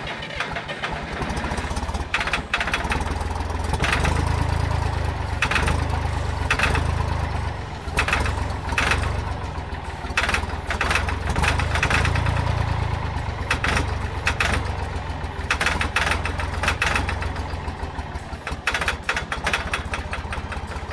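Old John Deere bulldozer engine turning over and firing unevenly, swelling and sagging in strength with irregular sharp pops: a hard, rough start on an engine long out of use.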